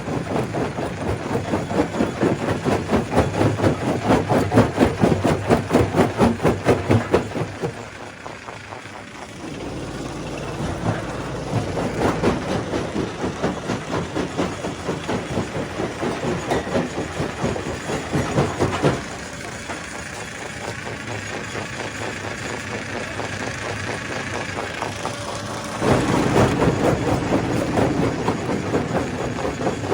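Stone crusher running: a steady mechanical din with a fast, even pulsing. It changes abruptly about 8, 19 and 26 seconds in.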